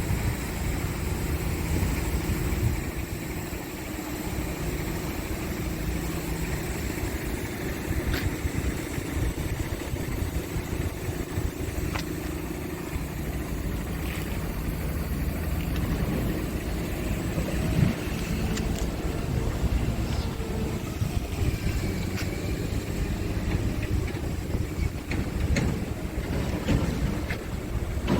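Scania R580 tractor unit's V8 diesel idling steadily, with a few light clicks along the way.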